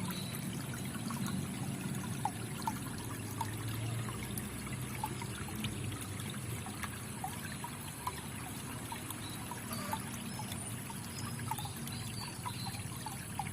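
Water trickling steadily, with many small bubbling plinks scattered through it.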